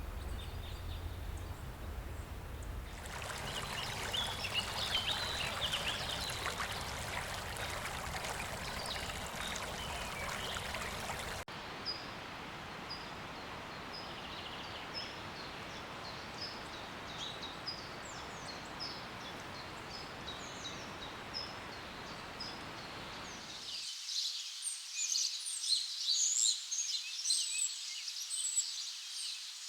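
Rainforest ambience: a steady rushing hiss with bird calls chirping over it. The background changes abruptly several times, ending on a section of dense, high bird chirping with little else beneath it.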